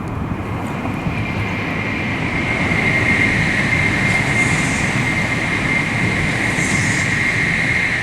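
Electric commuter train running on the Sanyo Electric Railway main line, a steady rumble of wheels on rails with a steady high whine over it.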